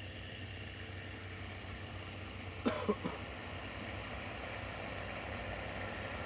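A person coughs twice in quick succession, about halfway through, over a steady low mechanical hum.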